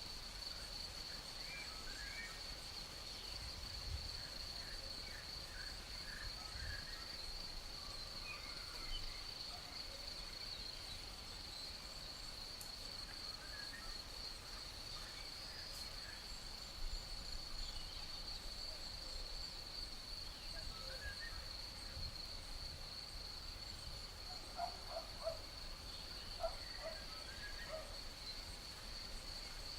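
A steady, high chirring chorus of crickets, with scattered short bird chirps over it and a few lower calls near the end.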